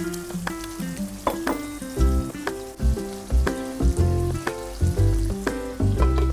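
Mutton karahi sizzling in the pan just after a splash of water goes in, under background music: a melody of steady notes, joined about two seconds in by a heavy, regular bass beat that is the loudest thing heard.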